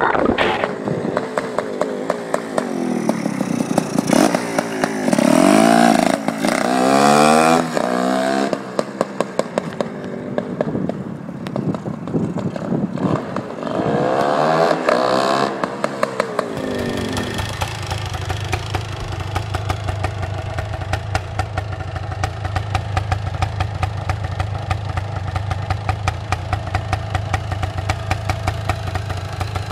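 Yamaha DT 400 two-stroke single-cylinder engine revved in repeated blips, its pitch rising and falling, then settling about 17 seconds in to a steady idle with a rapid, even ticking rhythm.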